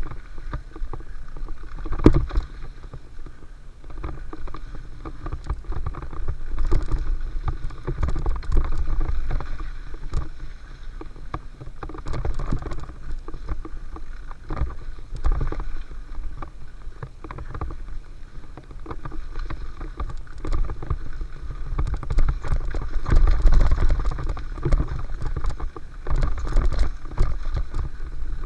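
Mountain bike rolling down a dirt flow trail: a steady rumble of tyres on dirt, broken by frequent rattles and knocks from the bike over bumps, with a hard jolt about two seconds in.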